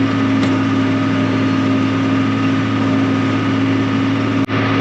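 Tractor engine running steadily while mowing hay, a constant low drone. The sound drops out for an instant near the end.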